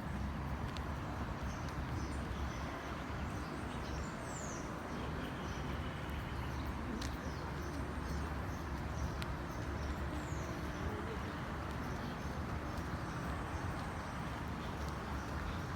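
Steady outdoor background noise with a low rumble and a few faint clicks, broken by two short, high, falling bird chirps about four and ten seconds in.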